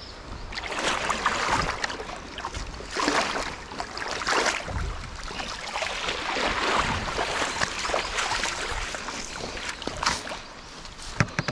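Water splashing and sloshing in a shallow mountain stream, coming in irregular surges, with a couple of sharp knocks near the end.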